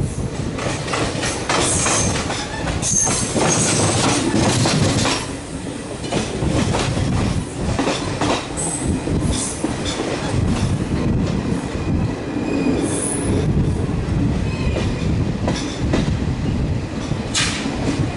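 Passenger train running on the track: a continuous rumble with the clatter of wheels over rail joints, and a few brief high-pitched wheel squeals.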